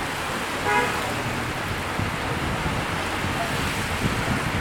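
Heavy rain pouring on a street and pavement, a steady hiss. There is a short pitched sound about a second in, and a car drives past on the wet road near the end, adding a low rumble and tyre swish.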